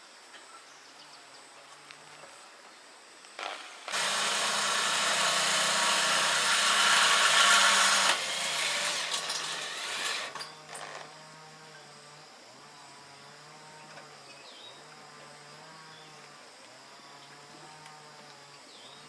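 Power tool starting with a short burst, then running loudly for about four seconds before it eases off and winds down by about eleven seconds in.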